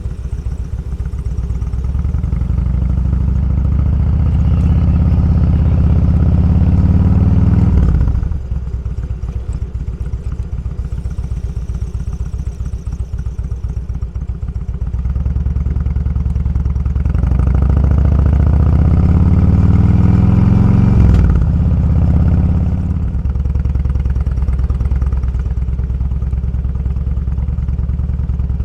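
Motorcycle engine under way, heard from the rider's seat, with the engine note climbing under throttle and then dropping suddenly, twice: about a third of the way in and again about three quarters of the way in.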